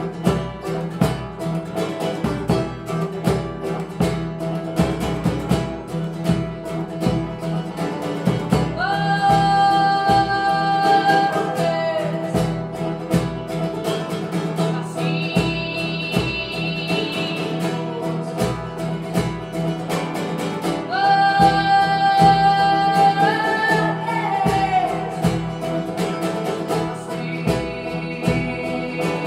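Live band music: acoustic guitar strumming steadily, with four long held melody notes coming in over it.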